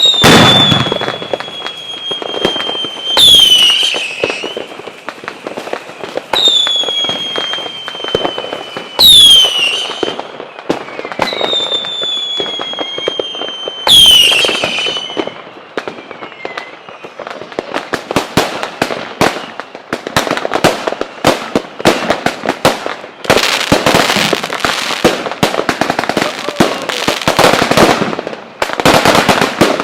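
Fireworks display: about six whistling fireworks in the first fifteen seconds, each a high whistle that shoots up and then slides slowly down, several of them with a loud bang. Through the second half comes a dense, continuous crackle of many rapid pops.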